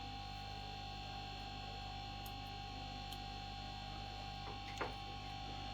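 Steady electrical hum with a faint, high, steady whine, and one small click a little before the end.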